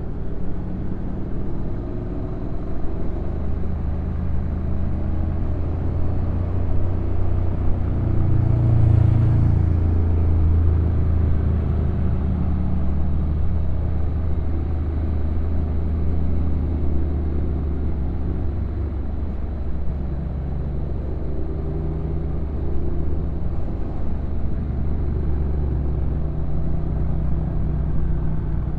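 Honda NC750X DCT motorcycle's parallel-twin engine running at a low, steady pitch while riding downhill, under a haze of wind and road noise. The low engine note swells briefly about a third of the way in.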